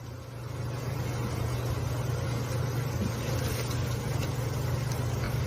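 Steady low engine-like hum under a constant wash of noise, fading up over the first second.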